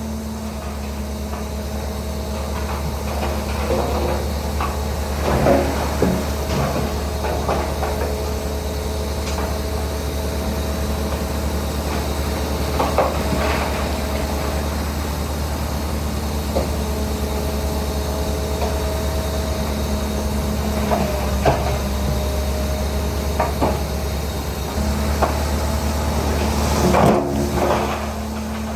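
Shantui DH17C3 bulldozer's diesel engine running steadily under load, with scattered metallic clanks and knocks from the machine working soil.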